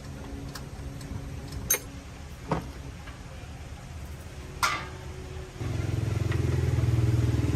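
A few sharp metallic clinks over a low steady hum, then about two-thirds of the way in a motor-driven machine starts suddenly and runs steadily, much louder than before.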